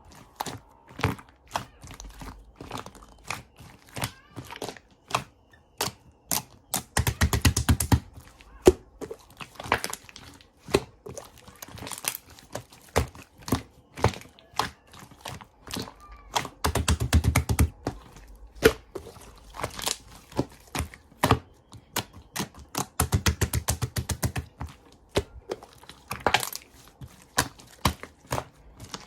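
Slime being squeezed, pressed and stretched by hand, giving a stream of sharp clicks and air-bubble pops, with three longer bursts of rapid crackling pops.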